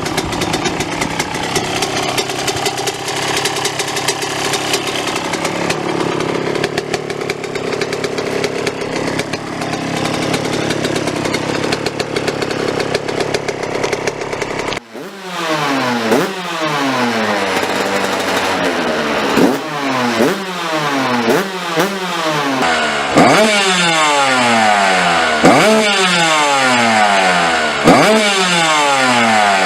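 Yamaha YZ125 two-stroke single-cylinder engine through an aftermarket exhaust. For the first half it runs steadily. About halfway the sound changes abruptly, and the engine is then blipped over and over, each rev shooting up and then dying away over a second or two.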